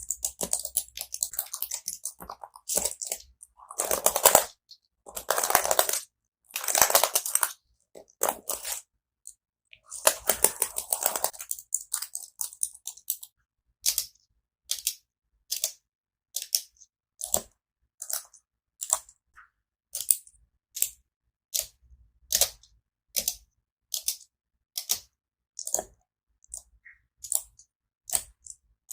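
Close-up clicking and tapping on keyboard keys, with no notes played. The first half has several longer rubbing passages. After that come single sharp clicks, a little more than one a second.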